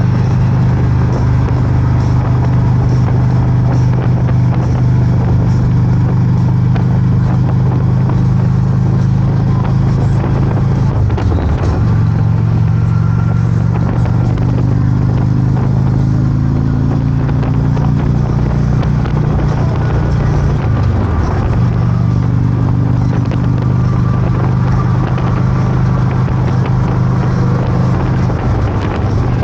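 Motorcycle engine running steadily under way, its note dropping sharply and picking up again twice, about a third and about two-thirds of the way through, like gear changes.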